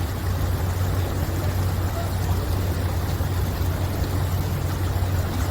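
A steady low engine drone under a constant noisy wash, with faint voices in the distance.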